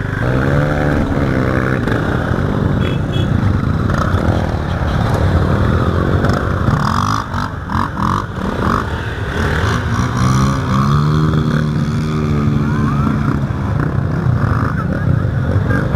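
Trail motorcycle engine running under way, its pitch rising as it revs up and dropping at gear changes several times, over a rough haze of wind and rattle.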